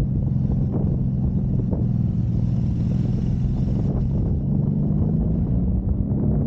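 1993 Honda Magna V4 motorcycle engine running at a steady pitch while riding, with a stretch of wind hiss a couple of seconds in.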